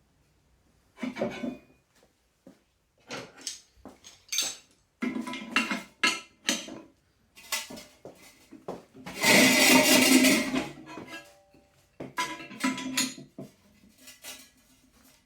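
Heavy 3/16-inch steel plate being worked and bent by hand, clanking and knocking in short separate strikes. About nine seconds in comes a denser, louder burst of metal noise lasting about two seconds.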